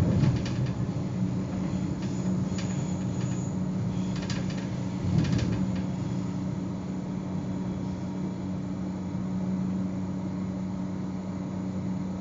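Zürich S-Bahn electric train running along the line, heard from inside the driver's cab. It gives a steady running noise with a constant low hum, and a few short clicks in the first six seconds.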